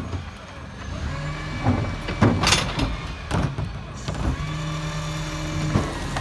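Garbage truck's diesel engine running, with several clunks and knocks of the bin-lifting gear. About four seconds in, the engine note rises and holds steady.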